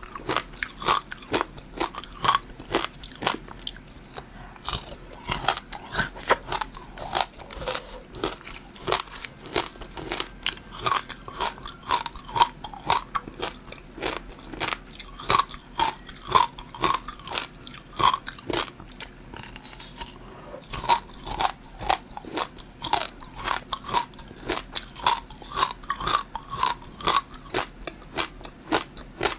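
A person chewing and biting food close to the microphone: a steady run of sharp crunchy clicks, several a second, with short squeaky mouth sounds among them.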